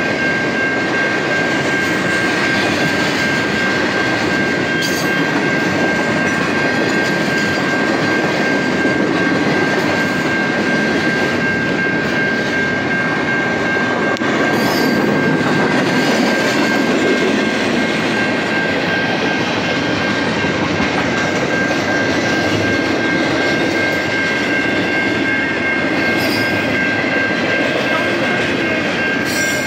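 Double-stack container train's well cars rolling steadily past at a level crossing, a continuous roar of wheels on rail. A steady high-pitched tone runs through it.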